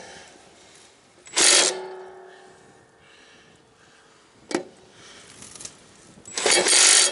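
Handheld power tool on a zero-turn mower's blade bolt, run in two short bursts about a second and a half and six and a half seconds in, each leaving a fading motor whine, with a sharp click between.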